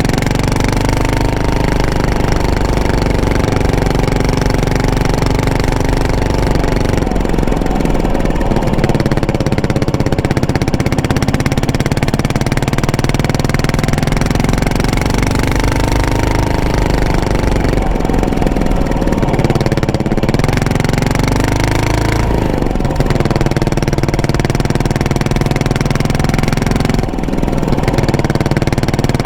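Yamaha SR400's single-cylinder four-stroke engine running under way through a custom muffler. The exhaust note rises and falls with the throttle, dropping off briefly several times as the rider rolls off or shifts.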